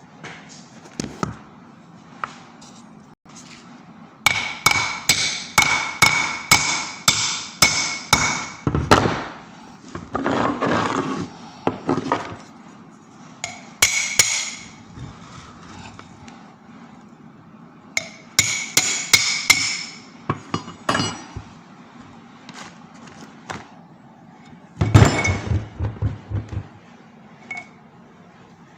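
A hammer striking metal in runs of several sharp, ringing blows, about two to three a second, with rasping scrapes in between. Near the end comes a short, louder buzzing burst.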